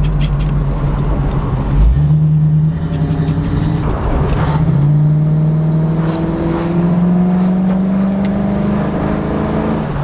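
Chevrolet 350 small-block V8 in a 1981 Camaro running under load. After a short break about four seconds in, its note climbs slowly and steadily for several seconds, then drops back near the end.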